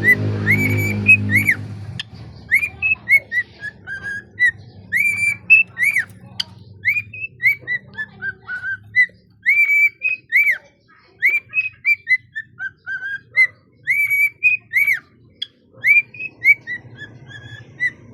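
Cockatiel singing: a long, continuous string of short, rising-and-falling whistled notes, repeating phrases in a tune-like pattern. A low hum lies underneath for the first couple of seconds.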